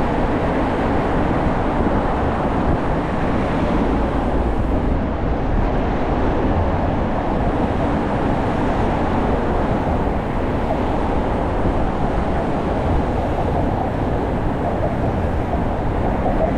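Steady rushing noise of riding a bicycle at speed, mostly wind buffeting the microphone, with a low rumble underneath.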